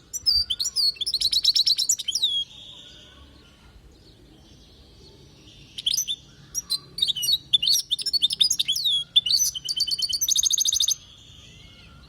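European goldfinch singing: two bouts of quick, high twittering with fast trills, about three seconds apart, each trailing off into a softer buzzy note.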